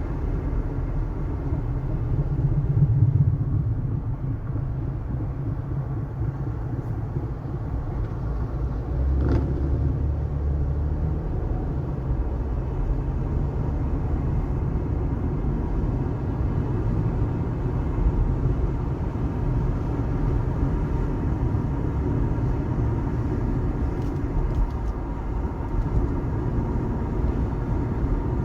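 Car driving on the highway: a steady low rumble of tyres and engine, with a single brief tick about nine seconds in.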